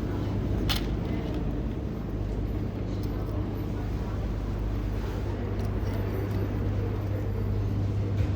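Steady low droning hum of a running engine or motor, with one sharp click about a second in.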